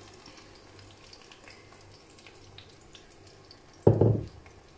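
Blended tomato frying faintly in a pan of hot oil and onions, with small scattered pops. About four seconds in comes one loud, dull knock.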